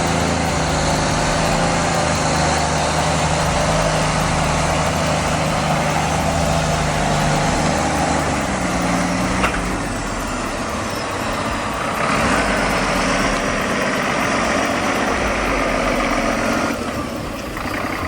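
Tractor engine running steadily under heavy noise, its tone shifting about halfway through, with a sharp click just before that.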